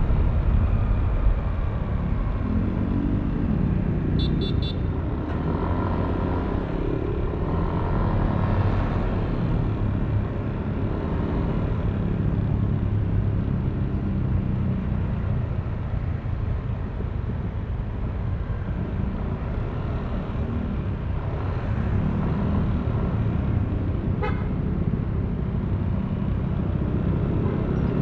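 Yamaha Aerox V3 scooter's single-cylinder 155 cc engine running on the move in city traffic, its pitch rising and falling with the throttle. Short horn beeps sound about four seconds in and again once near the end.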